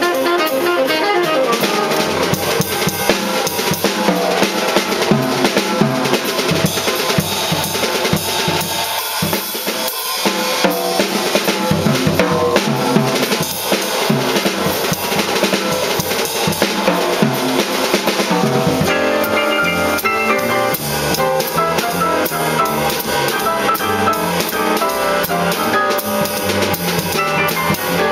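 Live jazz quartet with the drum kit to the fore: busy snare, bass drum and cymbal playing over the band, with piano and bass sounding underneath and more piano coming back in during the second half.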